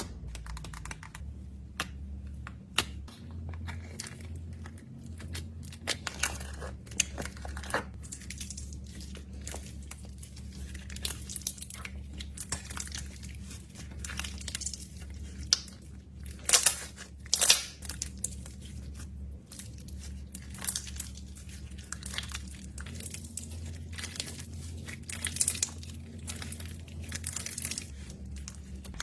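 Plastic packaging crinkling and tearing as small fidget toys are unwrapped and handled, with scattered sharp clicks and taps and a burst of louder crackling about halfway through.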